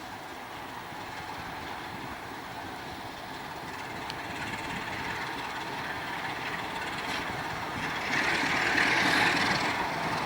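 Freight train wagons rolling on the rails, growing steadily louder, with a few faint wheel clicks. Near the end there is a louder, harsher rush of noise lasting about a second and a half.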